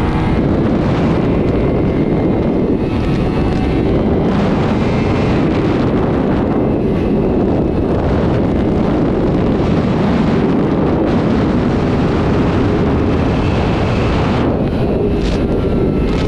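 Sport motorcycle running at speed, its engine tone largely buried under heavy wind noise on the microphone. The engine note comes through more clearly near the start and again near the end.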